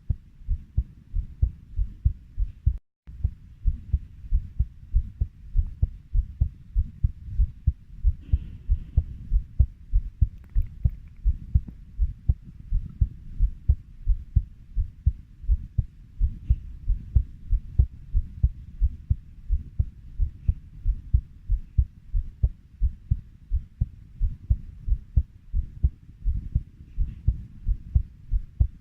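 Heartbeat at a steady 90 beats a minute, each beat a pair of low thuds, with a brief dropout about three seconds in.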